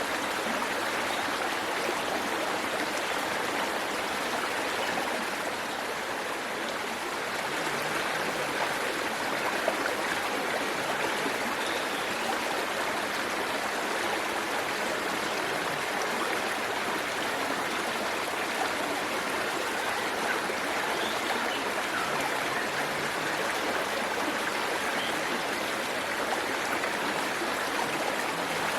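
Waterfall: falling water rushing in a steady, unbroken wash.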